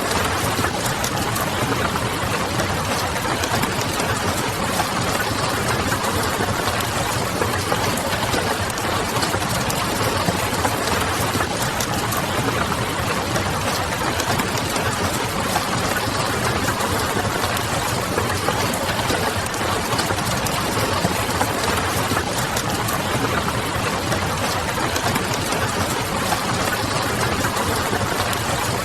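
Steady rain hissing, with a wood fire crackling in many small, irregular pops over it and a low steady city hum underneath.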